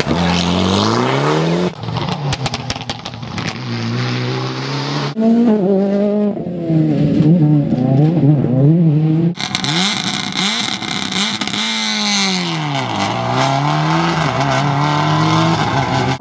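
Turbocharged four-cylinder World Rally Car engines revving hard in several short cuts: the pitch climbs through the gears, drops on braking and climbs again, with a cluster of sharp cracks about two seconds in.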